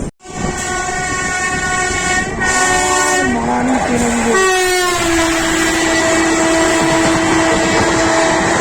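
Indian Railways train horns sounding over the steady noise of a train running at speed. A chord horn blast steps down in pitch about three seconds in. Then, after a brief pitch glide, a second horn is held steadily.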